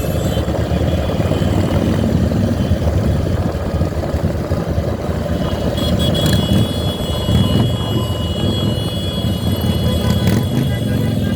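Motorcycle engine running on the road under heavy wind rumble on the microphone, a steady loud churning low noise. A thin, steady high tone joins about halfway through.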